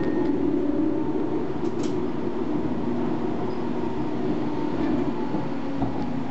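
Tram running along its track, heard from inside the car: a steady low rumble of wheels and traction motors with a constant hum, and a couple of faint clicks just under two seconds in.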